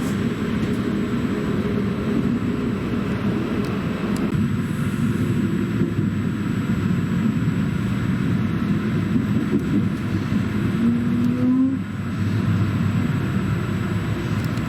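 Regional passenger train running: a steady low rumble of wheels and running gear on the rails. About eleven seconds in, a short low whine rises slightly, and the level dips briefly just after.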